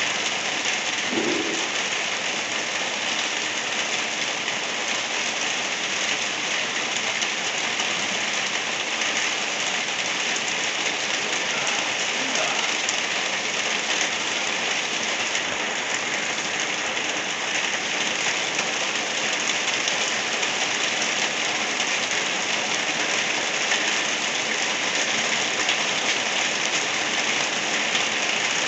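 Steady, even rain falling, a continuous hiss with no pauses or thunder.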